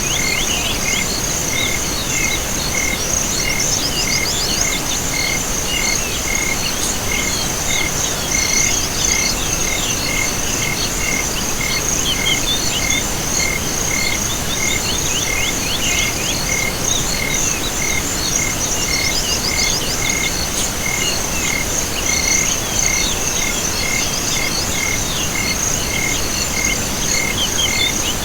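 Chorus of insects and frogs: a steady high insect trill, a regular chirp repeating about one and a half times a second, and many short quick calls scattered over it.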